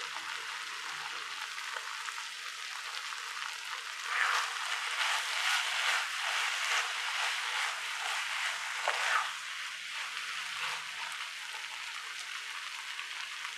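Cauliflower masala sizzling in hot oil in a pan. For a few seconds in the middle a wooden spatula stirs and scrapes through it, louder and more uneven than the steady sizzle.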